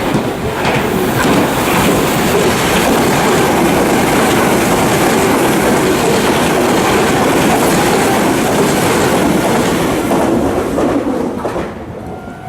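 Meitetsu 2000 series μSKY electric multiple unit passing at speed, a loud steady rush of wheels on rail with clickety-clack over the rail joints, fading away sharply near the end as the tail of the train goes by.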